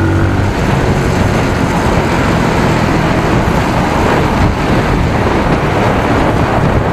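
Riding noise from a 250 cc single-cylinder motorcycle under way: a steady rush of wind and road noise with the engine running underneath.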